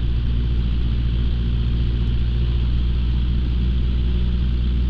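Light aircraft's piston engine running steadily at about 1,700 RPM on the pre-takeoff run-up, with carburettor heat applied for the carb heat check. The drone stays even, and the check result is normal.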